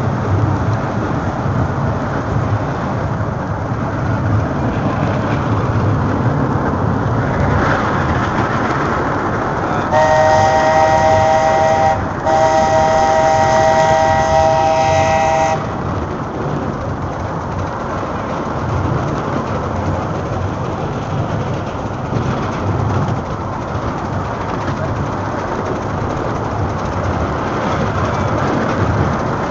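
Old steam train running, with steady rolling noise and rail clatter. About ten seconds in, its whistle sounds twice: a short blast, then a longer one of about three seconds, several notes together.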